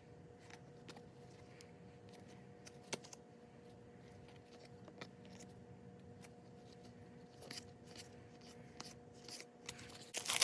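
Soft, scattered clicks and light rustling of trading cards being handled and slid into plastic card sleeves, with a slightly louder flurry of handling near the end. A faint steady hum runs underneath.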